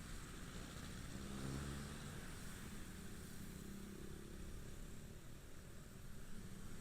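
Motorcycle engine running at low revs under steady road and wind noise, heard from on the moving bike; the engine note strengthens briefly about a second and a half in.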